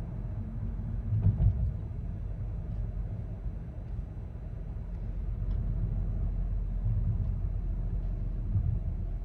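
Low, steady rumble of a car driving, heard from inside the cabin, with one heavier thump about a second and a half in.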